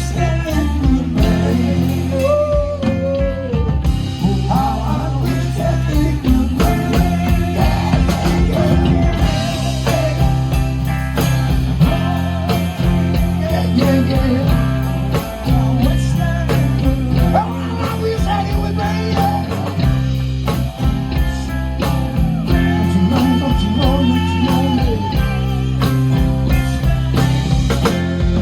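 A band playing a slow soul-blues song: electric guitar, bass and drums, with a wavering lead melody over a steady low bass line.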